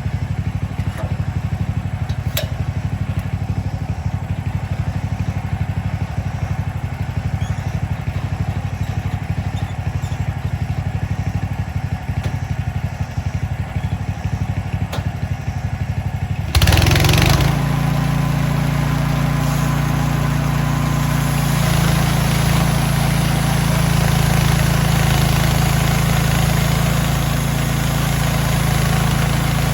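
Gasoline engine of a Mechmaxx portable band sawmill idling with a rapid low pulsing, then about halfway through it is suddenly throttled up and runs louder and steadier, with a hiss added above the engine note.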